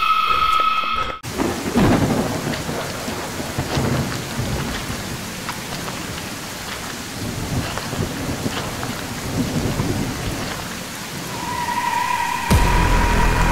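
Steady rain with rolling thunder, the strongest rumble about two seconds in. A brief high held tone cuts off about a second in, and near the end a steady high tone over a low hum comes in.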